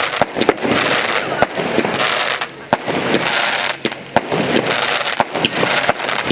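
Fireworks going off in quick succession: many sharp bangs and pops over a steady crackling hiss of burning shells, with brief lulls about two and a half seconds in and again near four seconds.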